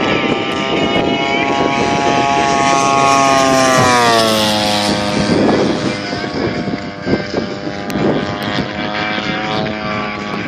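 35% Extra 300 RC aerobatic plane flying past, its DA-120 twin-cylinder two-stroke gas engine and propeller droning loudly; the pitch drops sharply about four seconds in as it passes.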